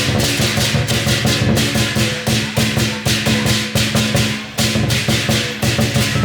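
Lion dance percussion: a big drum with clashing cymbals and gong, beating a fast, loud, unbroken rhythm.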